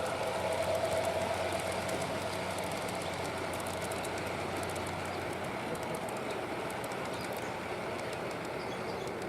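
G-scale model train running along garden railway track, with a steady rolling sound and faint ticking, getting slowly quieter.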